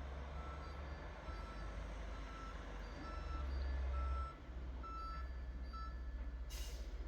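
A truck's reversing alarm beeping about twice a second over the low rumble of its engine as it backs up, with a short hiss near the end.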